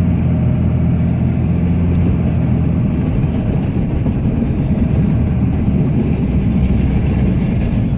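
Cummins diesel engine of a Ram pickup running under load while plowing snow, heard from inside the cab. A steady low engine note gives way about three seconds in to a rougher rumble as the truck and plow jolt over frozen ground.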